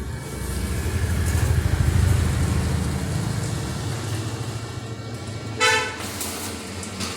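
A motor vehicle's engine rumbling close by, swelling over the first two seconds and then holding steady, with one short horn toot near the end.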